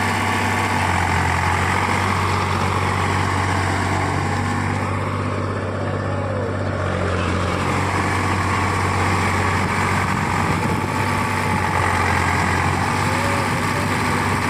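Diesel tractor engine running steadily at an even speed, with a strong low hum.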